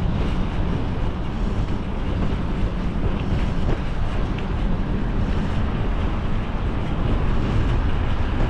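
Steady wind noise buffeting the microphone while riding a mountain bike, a dense rush heaviest in the low end.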